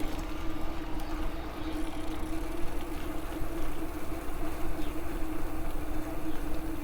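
Electric bike motor running with a steady whine while riding, with wind rumble on the microphone.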